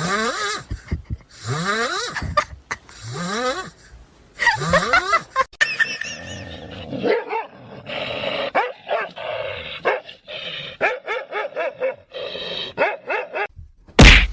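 A dog vocalising: first a few long cries that rise in pitch, then a quick run of short barks and yips.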